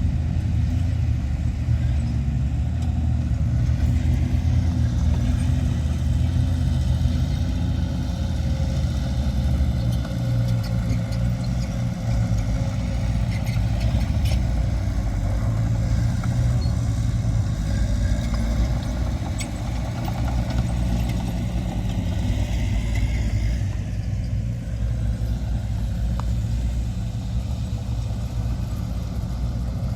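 Heavy diesel earthmoving machinery running steadily under load, with a few short clanks.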